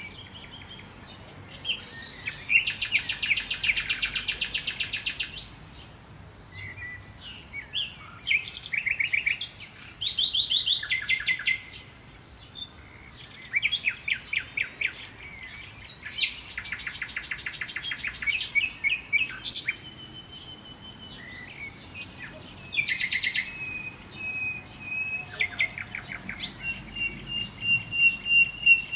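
Songbirds singing: several rapid, buzzy trills lasting a couple of seconds each, mixed with shorter chirping phrases, and a long steady high note near the end.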